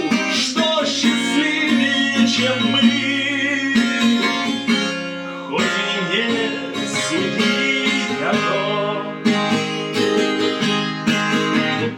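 Acoustic guitar strummed and picked in a song's instrumental passage between sung lines.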